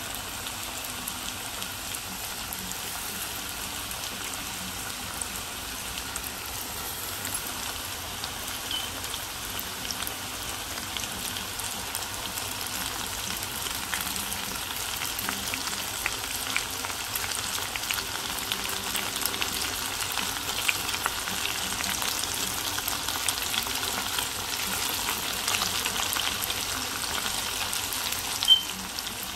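Potato-flour-coated chicken strips deep-frying in hot oil in a pan: a steady crackling sizzle of many small pops. It grows a little louder partway through as more strips go into the oil, with one sharper pop near the end.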